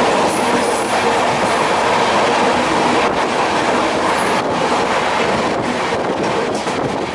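Sleeper coach of a passenger train running at speed, heard through its open window: a steady, loud noise of the wheels on the rails.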